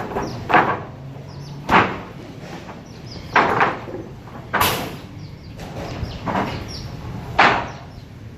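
Heavy hand-tool blows into a concrete floor being broken up and dug out. There are about six sharp strikes at uneven intervals, roughly one every second or two.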